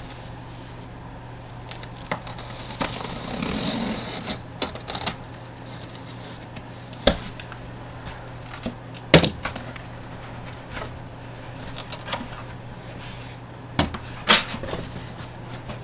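Boxes and packaging being handled and opened: scattered sharp clicks, taps and knocks with a stretch of rustling, the loudest knocks a little past the middle and near the end.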